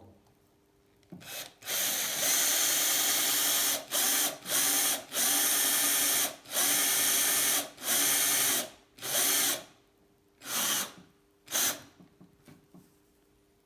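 Electric drill boring small cosmetic lightening holes in a bicycle seat-post clamp. The motor whines steadily, running in stop-start bursts: one long run of a couple of seconds, then shorter and shorter pulses. A few faint clicks come near the end.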